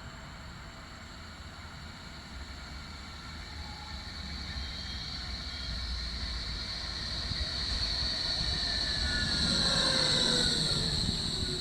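Electric tram approaching and passing, growing louder to a peak about ten seconds in. A steady high whine runs under it, and several falling tones come in as it goes by.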